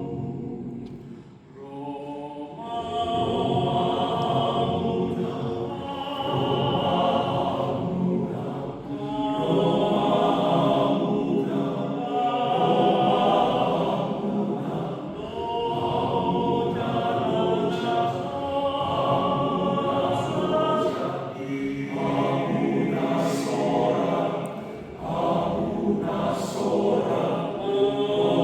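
Men's choir singing a Batak Toba hymn in several parts, holding long chords phrase after phrase, with a brief break about a second in before the next phrase begins.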